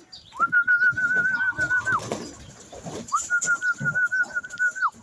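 Two long, warbling whistles, each held about a second and a half, used to call racing pigeons down into the loft, with pigeons cooing underneath.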